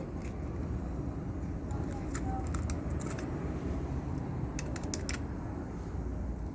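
Steady low background rumble with a few light clicks and taps of small parts being handled, several in quick succession about five seconds in.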